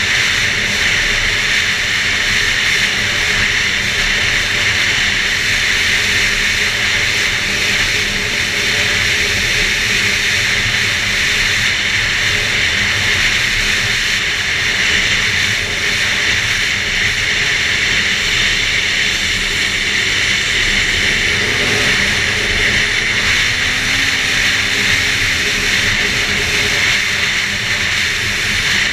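2011 Arctic Cat F8 Sno Pro snowmobile's two-stroke twin engine running at a steady speed on the trail. Its loud, unbroken noise is mixed with a steady hiss.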